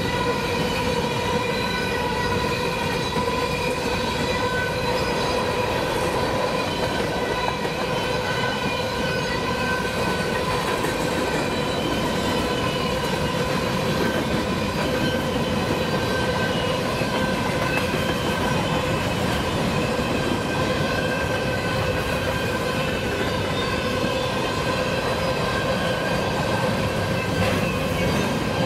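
Loaded or empty BNSF covered hopper cars of a freight train rolling past on the rails: a steady rumble and clatter of steel wheels, with several constant high-pitched squealing tones over it.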